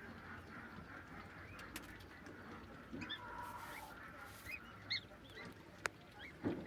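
Pekin ducklings faintly peeping from eggs that are starting to crack, short high chirps in the second half, over a low steady hum, with one sharp click near the end.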